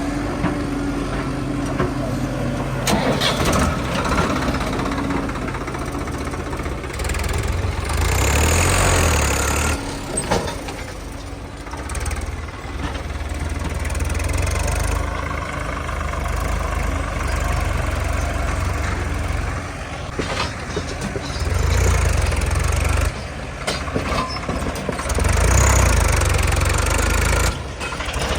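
Diesel engines of heavy machinery, a backhoe loader and farm tractors working in mud, running under varying load, with several abrupt changes in level through the stretch.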